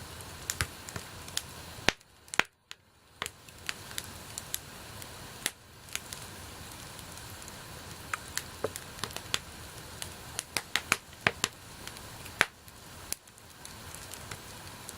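Wood bonfire crackling: irregular sharp pops and snaps over a steady hiss of burning, the hiss briefly dropping away about two seconds in.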